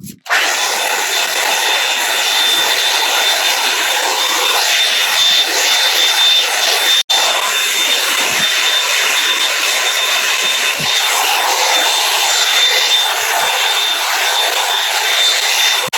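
Revlon One Step hair dryer brush running: a loud, steady rush of blown air with a high motor whine. It starts abruptly at the outset and drops out for an instant about seven seconds in.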